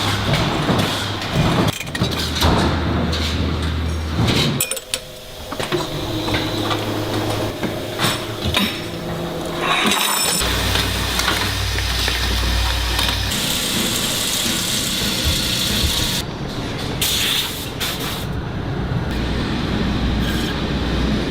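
Factory machinery running and clattering, with a steady low hum in places; the sound changes abruptly about 5, 10 and 16 seconds in.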